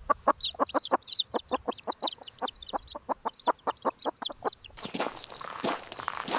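Chickens clucking in a quick run of short clucks, about four a second, with higher chirping calls over them. About five seconds in, the clucking gives way to crunching, rustling footsteps.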